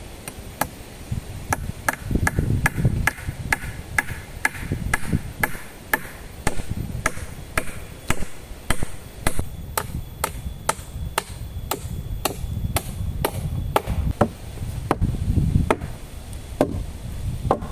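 Steady chopping of wood with a bladed tool, about two sharp strikes a second, with low wind rumble on the microphone.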